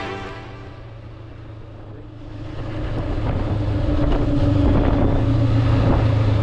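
Motorbike engine running with wind noise on the microphone, quiet at first and growing louder about two seconds in.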